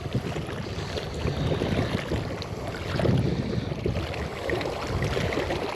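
Wind buffeting the microphone: an uneven low rumble that swells about three seconds in.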